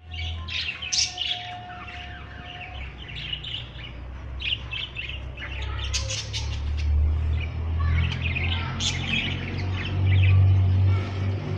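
Budgerigars chirping and chattering in quick, warbling bursts, over a steady low hum that grows louder about ten seconds in.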